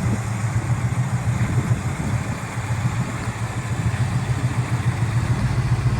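Car engine running steadily at low revs, a low, even hum with a quick regular pulse.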